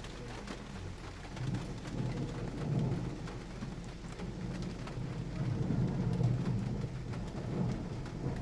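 Heavy thunderstorm rain falling, with a low rumble of thunder that swells about a second in and rolls on for several seconds.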